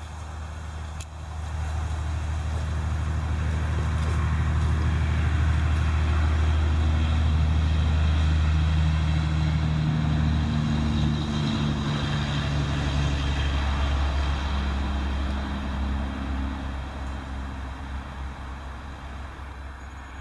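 A motor engine running steadily, growing louder over the first few seconds and easing off toward the end.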